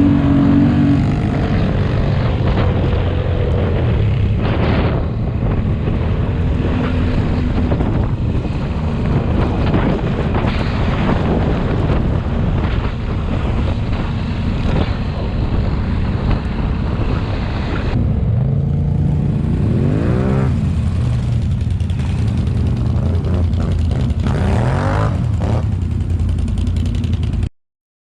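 ATV engines running under load in deep snow, revving up in rising sweeps a couple of times; the sound cuts off suddenly near the end.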